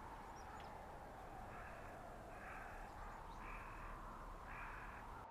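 Steady blizzard wind hissing through a winter forest, with a crow cawing four times about a second apart.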